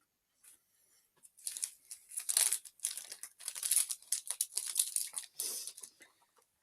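Crinkly plastic snack packaging being handled and torn open, in irregular rustling bursts that begin about a second in.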